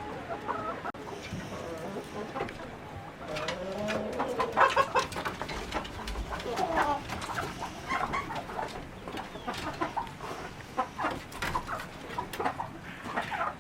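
Chickens clucking and calling, many short calls overlapping.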